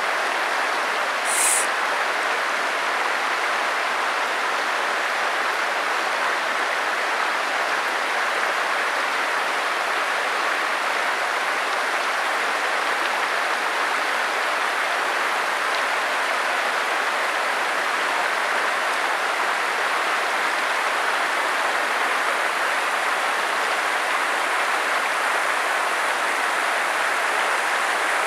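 Steady rushing of a flowing stream, an even unbroken wash of water. A brief sharp hiss cuts in about a second and a half in.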